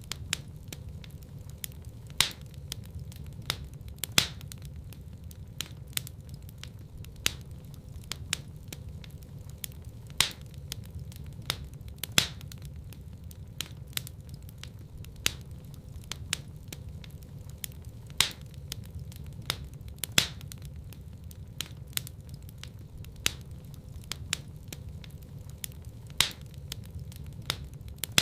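Wood fire in a fireplace crackling: sharp, irregular pops about once or twice a second over a steady low rumble of the burning logs.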